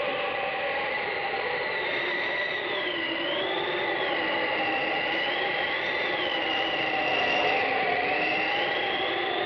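Eerie sound effect from a Halloween sound-effects record: a continuous rushing drone with a steady high tone underneath and a higher, whistle-like tone that slowly wavers up and down.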